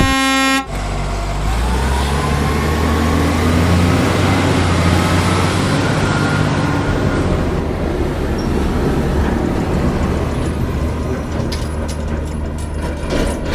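A heavy engine rumbling steadily under a loud hiss, with a rising whine in the first seconds; it sets in as music cuts off in the first second.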